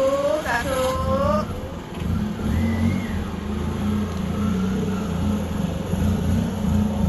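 A high-pitched voice for about the first second and a half, then a steady low rumble of a running vehicle.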